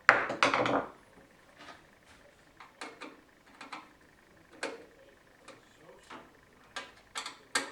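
Hands handling parts of a computer case: a short rattling clatter at the start, then a dozen or so sharp clicks and taps at irregular intervals.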